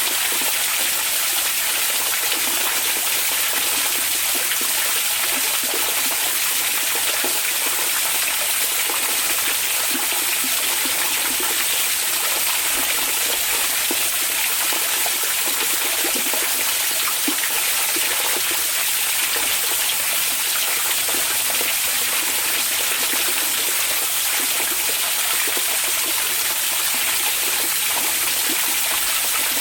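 Hot spring water running and splashing steadily in an even, unbroken rush, with small gurgles underneath.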